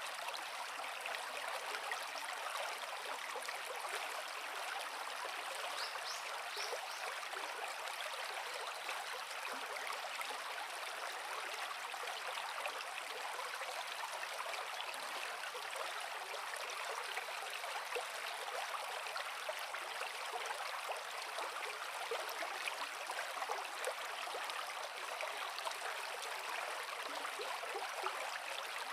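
Creek water flowing over rocks: a steady, even rush of running water, bright and hissy with little low rumble.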